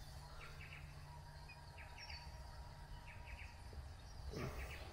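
Faint outdoor ambience: a bird calling in short groups of quick high chirps, repeated about every second, over a steady low background hum.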